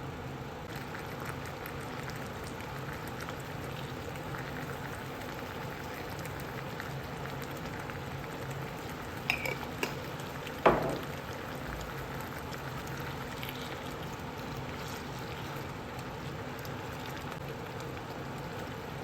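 Food cooking in a pot on the stove, a steady bubbling hiss. A few light clicks come about nine seconds in, then one sharp clink with a short ring near eleven seconds in.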